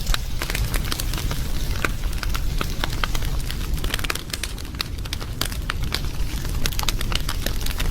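Wood fire crackling, with many irregular sharp pops and snaps over a low steady rumble of the flames.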